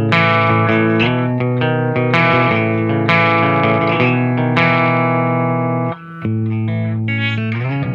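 Distorted electric guitar played through a Diezel VH2 tube amp head into a Marshall 1960 4x12 cabinet. It rings out a riff of struck chords about twice a second, with a brief break about six seconds in and then quicker picked notes near the end.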